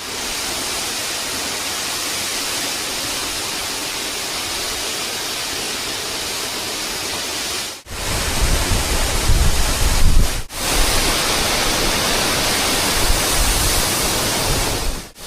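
Waterfall rushing steadily, a dense even hiss. It breaks off briefly twice, about eight and ten seconds in, and from about eight seconds in a heavy low rumble joins it.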